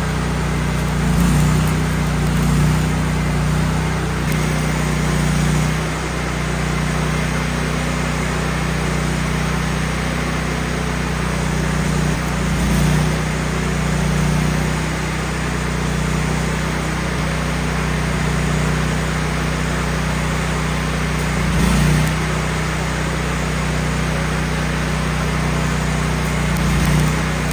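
Gasoline engine of a Miller Bobcat 250 engine-driven welder running steadily, with a few brief swells in level.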